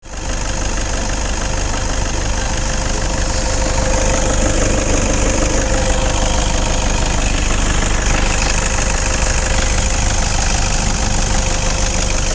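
Vehicle engine idling steadily during an engine carbon-cleaning job, with a constant high hiss over the engine note.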